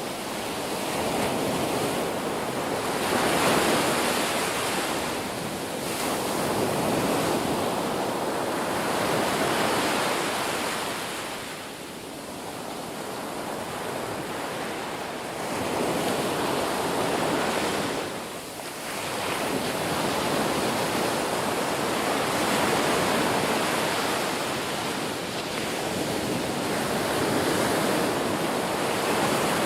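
Ocean waves breaking and washing on a shore, a continuous surf that swells and ebbs every few seconds.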